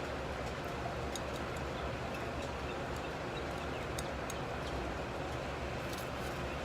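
Steady low hum and hiss of shop background noise, with a few faint light clicks scattered through it.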